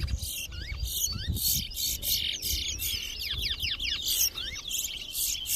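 Caged towa-towa finches singing in a bird-whistling race: a fast, unbroken run of sweeping whistled notes mixed with repeated buzzy chirps.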